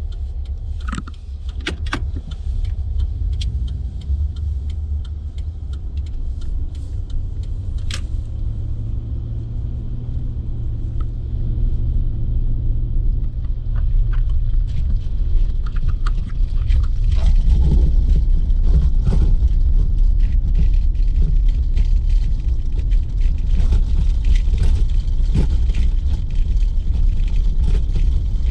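Pickup truck driving on a rough, bumpy road: a steady low rumble with scattered knocks and rattles, getting louder about 17 seconds in.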